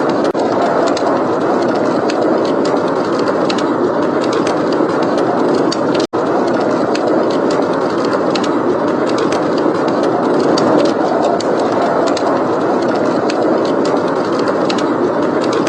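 Steady, loud blizzard wind with a wood fire crackling over it in small, irregular pops. The whole mix cuts out for an instant about six seconds in.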